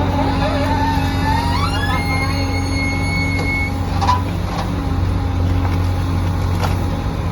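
Excavator's diesel engine running steadily under throttle, with a higher whine that rises and holds for a while about two seconds in.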